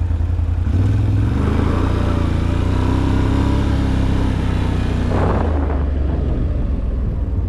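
Off-road vehicle's engine running while driving a dirt trail. It picks up revs about a second in and holds steady, with a brief rush of noise around five seconds in, then eases off.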